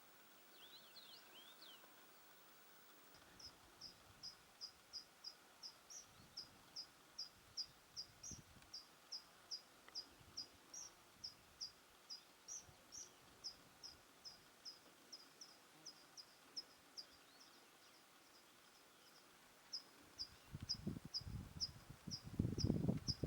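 Quiet mountain ambience with a short, high chirp repeated steadily about two to three times a second. A brief warbling bird call sounds near the start, and low rumbling bursts come near the end.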